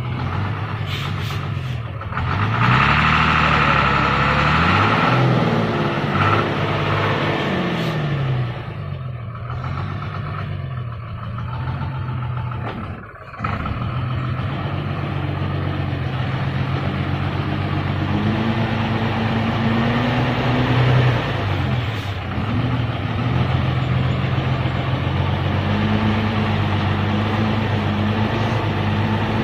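Hino truck's diesel engine running under load, its pitch rising and falling repeatedly as it is revved, with a hissing noise a few seconds in and a brief lull about 13 seconds in.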